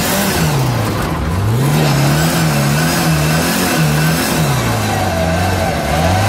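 Car engine heard from inside the cabin, revved hard and lifted off again and again while the car drifts, its note falling about a second in, rising and wavering, then dropping again near the end.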